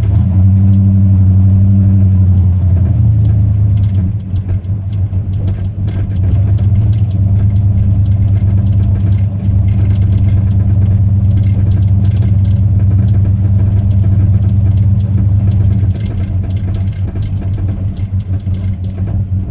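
1968 Cadillac hearse's V8 engine and drivetrain running steadily while driving, heard from inside the cabin as a deep rumble, with light clicks or taps sounding repeatedly over it. The clicking is a newly started fault that seems worse when steering; the owner can't tell whether it is steering-related or engine-mount-related.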